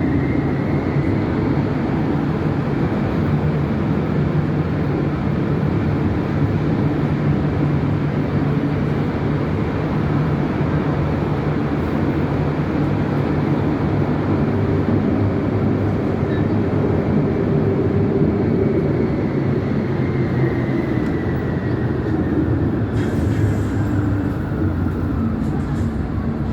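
Tram running steadily on its rails: a continuous loud rumble with a faint high whine that slowly drops in pitch near the end.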